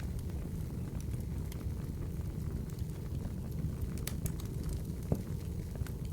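Open wood fire burning in a fireplace: a steady low rumble with scattered crackles and pops, a few sharper snaps about four seconds in and one louder pop a little after five seconds.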